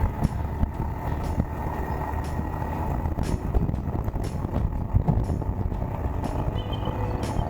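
Suzuki GSX1400 motorcycle riding at motorway speed: steady engine rumble under heavy wind noise on the camera microphone.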